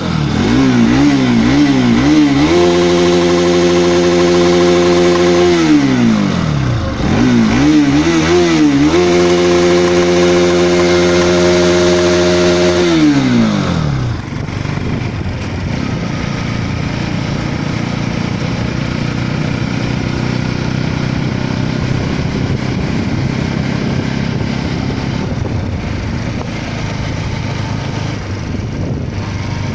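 Bajaj Pulsar NS200's 199.5 cc single-cylinder engine revved while standing, twice: a few quick blips, then held at a steady high rev for about three seconds and let fall back. About halfway through, the bike is ridden at speed, its engine under a steady rushing noise.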